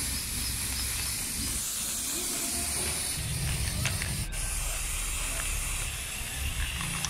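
Aerosol spray paint can hissing steadily as it sprays paint, with a very brief break about four seconds in.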